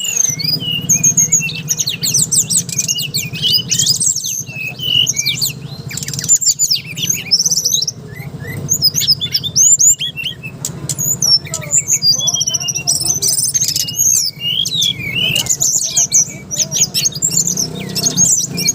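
An SRDC (brown-chested jungle flycatcher) singing loudly: a rapid, continuous run of varied high chirps, trills and whistles. A steady low hum runs beneath it.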